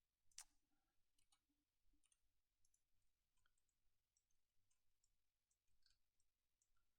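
Near silence with faint, scattered clicks, the strongest about half a second in.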